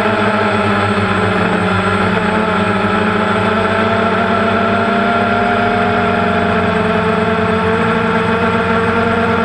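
Quadcopter drone's motors and propellers whirring steadily while it hovers: a dense stack of tones that drift a little up and down in pitch, with no firework bangs heard over it.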